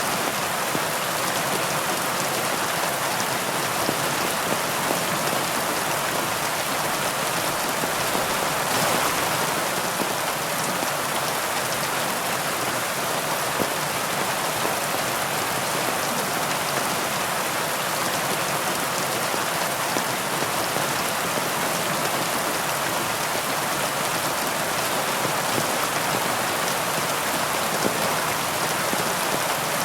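Heavy rain falling steadily, a dense even hiss of drops on leaves.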